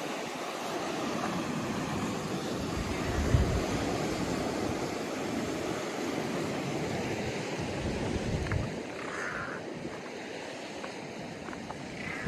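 Ocean surf washing steadily against the shore, with wind gusting on the microphone a few times.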